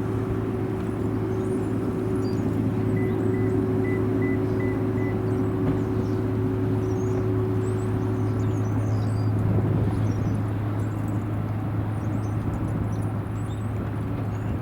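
Steady rumble of jet aircraft engines with a steady whining tone that fades out about nine seconds in.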